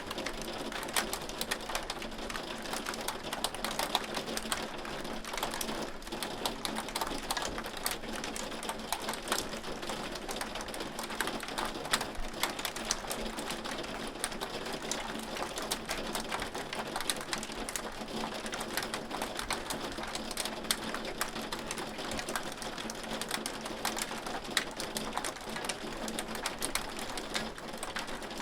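Hailstones falling and striking, a dense steady mass of many small sharp ticks with no let-up.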